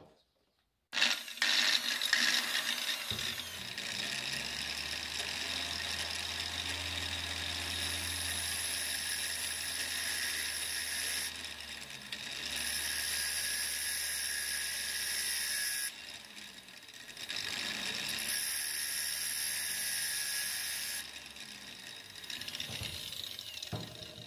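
An angle grinder starts about a second in and runs steadily. A metal cable-housing ferrule is held against the spinning disc three times, and the high hiss of grinding rises with each pass and drops as it is lifted off. The motor winds down near the end.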